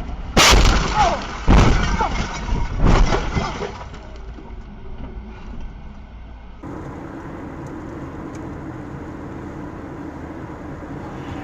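Vehicle collision: three loud crashing impacts within about three seconds, then steady vehicle and road noise.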